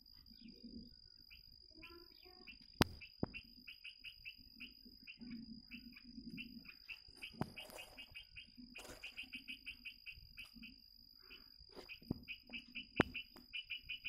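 Bird chirping in quick runs of short, evenly spaced notes, over a steady high whine, with a couple of sharp clicks.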